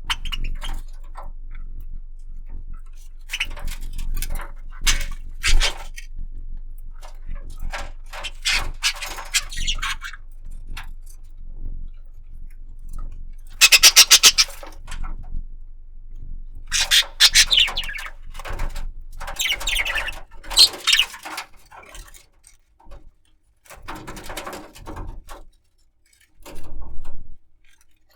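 Budgerigar chattering: irregular chirps, clicks and short falling squeaks, with a loud run of rapid clicking about halfway through.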